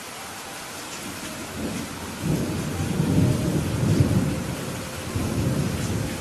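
Steady rain hissing, with a rolling rumble of thunder that swells about a second and a half in, peaks midway and dies away near the end.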